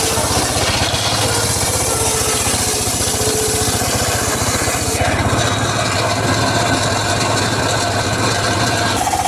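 Engine-driven mobile circular saw running steadily while sawing teak wood, the engine's even beat heard throughout. The sound shifts about five seconds in and again near the end.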